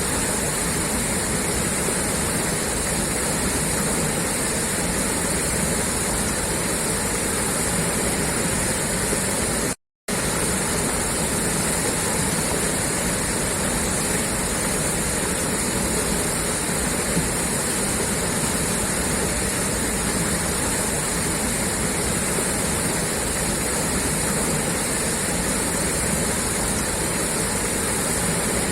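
Water gushing steadily out of a pipe, an even continuous rush. It cuts out for a split second about ten seconds in, then carries on unchanged.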